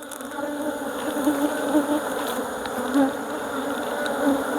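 Many honeybees buzzing around an opened hive, a steady drone that swells a little in the first second and then holds.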